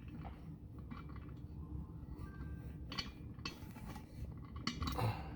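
Light clinks and taps of faucet parts being handled as the rubber gasket is fitted over the faucet's supply lines, with a few brief clicks about three seconds in and near the end.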